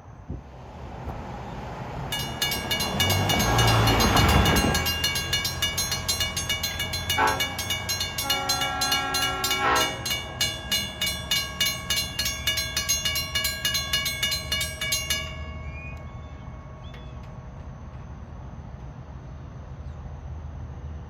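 A Long Island Rail Road diesel train led by locomotive 521 runs past close by. Its Nathan K5LLA five-chime horn sounds a short blast and then a longer one about halfway through. A fast, regular ringing clatter runs through most of the pass and stops about three quarters of the way in, leaving a low rumble.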